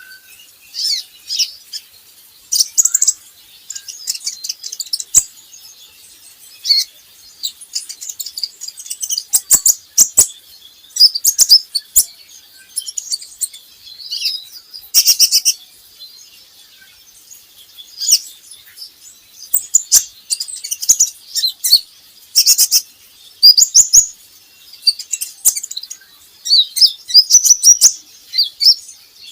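Kolibri ninja sunbird singing: rapid, high-pitched chirps and twittering trills in short bursts with brief pauses between them.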